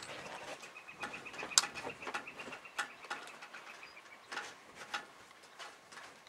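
A bird's long, even trill in the background, with scattered faint ticks and one sharp click about one and a half seconds in.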